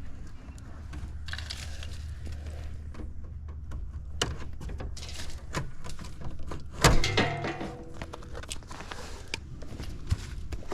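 Clicks, knocks and rattles of hands working on parts and wiring of a heat pump's outdoor unit, with a louder clatter about seven seconds in and a steady low hum underneath.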